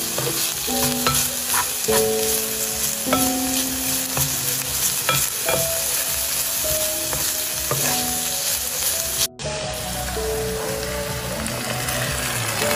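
Chopped onion, green chili and red pepper sizzling as they fry in a pan, with tongs stirring them and ticking against the pan. The sound cuts out for a moment about nine seconds in.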